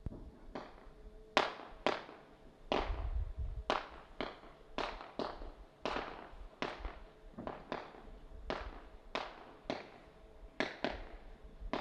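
Fireworks going off in a steady run of sharp bangs, one or two a second at uneven spacing, each followed by a short echoing tail.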